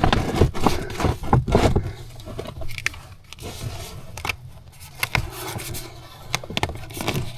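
Plastic pond liner being handled and worked: irregular crinkling, rustling and scraping, busiest in the first couple of seconds.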